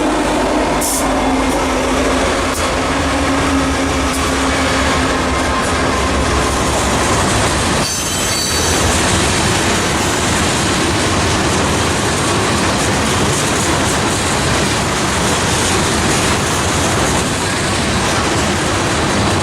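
Freight train cars rolling past close by, with a steady, loud clatter of steel wheels on the rails.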